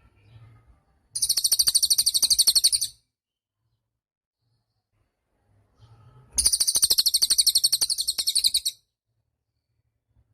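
Cililin songbird singing two fast, high trills of rapidly repeated notes, each about two seconds long, with a pause of about three seconds between them.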